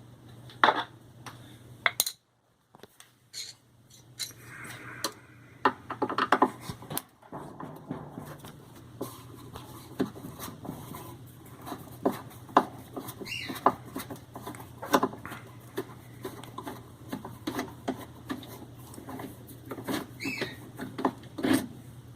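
Irregular metallic clicks, clinks and knocks of hand tools and hardware while the old shift sensor's mounting screws are worked loose under a washing machine, over a steady low hum.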